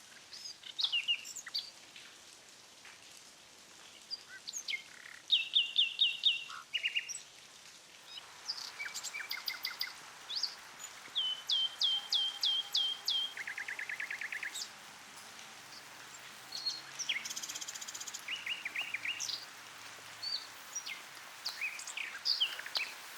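Several songbirds singing and calling: short chirps repeated in quick runs of five or six notes, and one fast trill, over a steady background hiss that grows a little fuller about eight seconds in.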